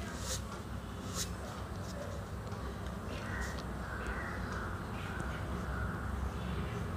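Harsh, cawing bird calls, several in a row from about three seconds in, over a low steady hum. A few faint scratchy strokes of an oil pastel on paper come earlier.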